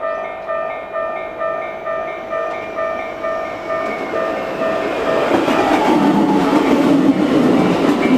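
Railway crossing warning bell ringing about twice a second. About four seconds in, a passing train's running noise builds and drowns the bell.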